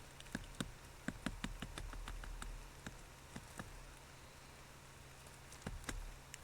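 Irregular sharp taps and clicks close to the microphone, in a quick flurry in the first couple of seconds and again near the end, over a steady low electrical hum.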